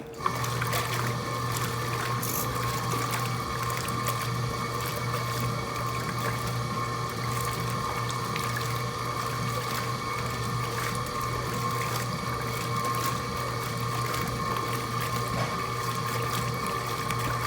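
A Mueller Plus washing machine's motor starts suddenly and runs with a steady hum, churning the water in the tub during the wash.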